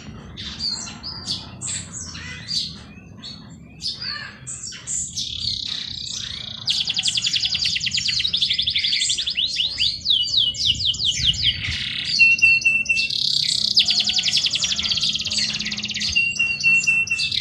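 Several songbirds singing together: scattered short chirps at first, then from about five seconds in long, very fast trills overlapping one another, with a short steady whistled note twice near the end. A faint low background rush runs underneath.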